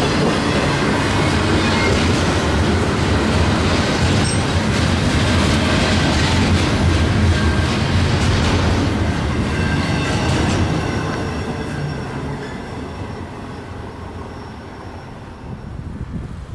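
Freight train rolling past on the rails: a loud, steady rumble and clatter of the cars, with a thin high wheel squeal. It fades away over the last few seconds as the train recedes.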